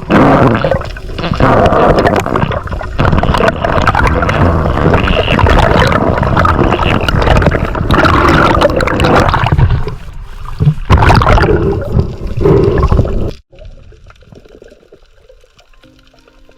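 Water gurgling and bubbling loudly and choppily right against the microphone, then cutting off suddenly a little over thirteen seconds in.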